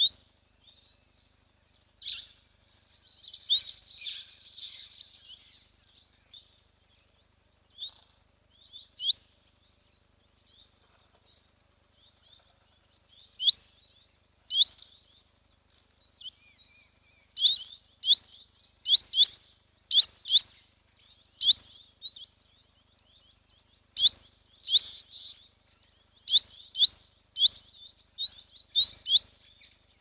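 Wild birds calling: some twittering a few seconds in, then a run of short, sharp, high chirps from about halfway, coming every half second to a second. A thin, steady, high-pitched whine runs under them and cuts off suddenly about two-thirds of the way through.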